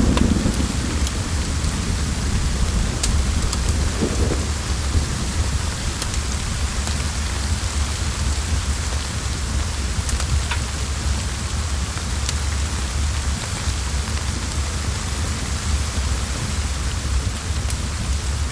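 Steady heavy rain over a deep low rumble, with a roll of thunder dying away in the first moment. A few sharp crackles from a wood fire are scattered through it.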